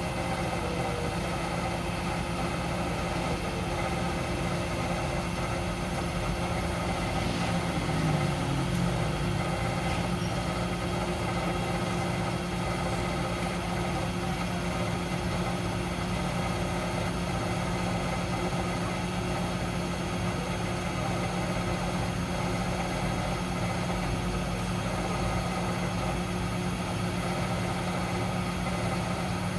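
Miele W 759 washing machine running, a steady mechanical hum with several steady tones. About eight seconds in there is a brief louder moment with a short dip in pitch.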